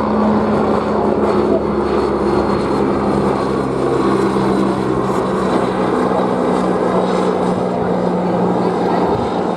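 Vintage display aircraft flying past, a loud steady engine and propeller drone whose pitch drops slightly about halfway through.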